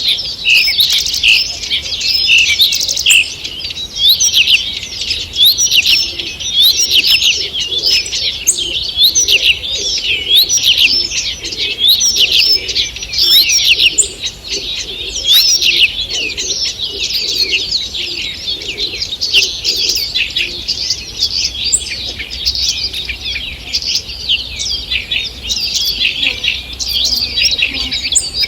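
Morning chorus of many small songbirds singing and chirping at once, dense and unbroken, with fainter lower calls beneath.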